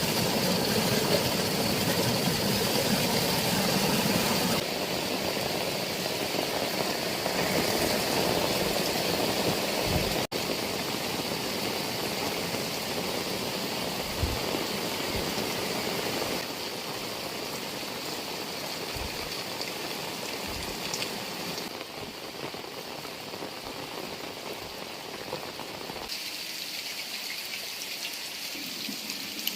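Heavy rain falling in a steady, dense hiss, its loudness and tone changing abruptly several times. A few short low thumps come through partway in.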